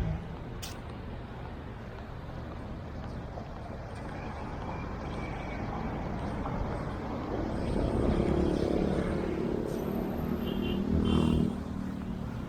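Road traffic on a busy street. A vehicle engine passes close, loudest from about eight to eleven seconds in.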